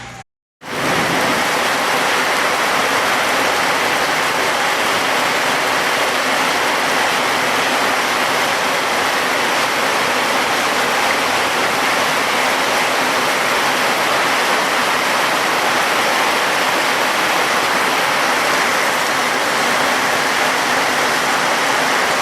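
Heavy storm rain pouring down, a loud, steady, even rush of noise that starts abruptly after a brief silence about half a second in.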